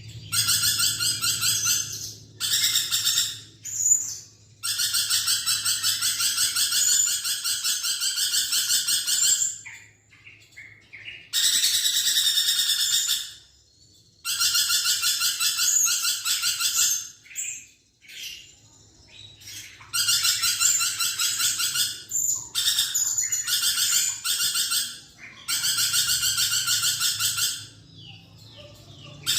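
A lorikeet calling in a fast, rattling chatter. It comes in bursts of one to five seconds with short pauses between.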